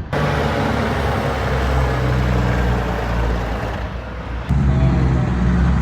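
Heavy truck diesel engines running with traffic noise. A steady low engine drone, which jumps abruptly to a louder, deeper drone about four and a half seconds in.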